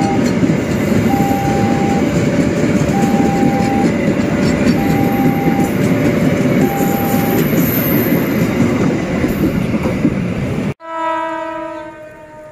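Bulk cement tank wagons rolling past close by, a loud steady rumble with wheel noise on the rails, while a level-crossing warning alarm repeats two alternating tones and then stops about seven and a half seconds in. Near the end, after a cut, a distant locomotive horn sounds once and fades.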